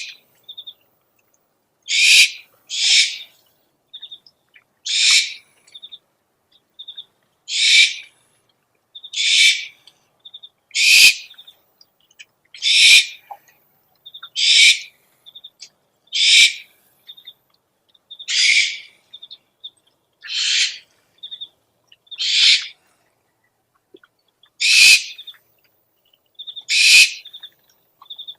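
Owl lure recording: harsh, hissing screech calls, about fourteen of them, each about half a second long and coming every couple of seconds. Between them come short rapid series of high twittering pips.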